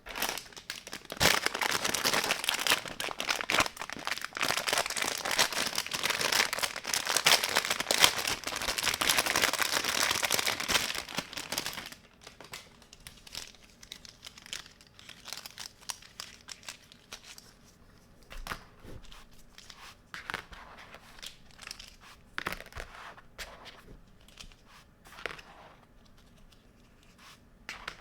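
Packaging being crinkled and torn open by hand, dense and loud for the first twelve seconds or so. After that it drops to quieter, scattered rustles and small clicks as the pieces are handled.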